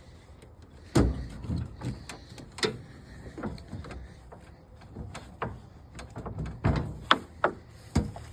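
A run of irregular metal knocks and clunks as a scrap load is released and handled, with the loudest strikes about a second in and several more near the end.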